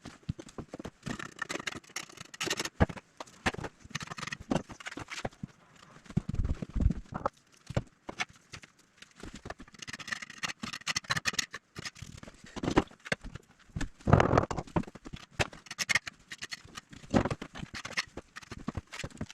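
Irregular knocks, taps and short scrapes of hand work with tools and building materials, coming in uneven clusters with brief pauses between them.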